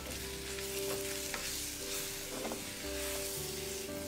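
Sliced onions, green chillies and tomato slices sizzling in coconut oil in a clay pot as a wooden spatula stirs them, with a few light scrapes and taps of the spatula. Soft background music with held notes plays underneath.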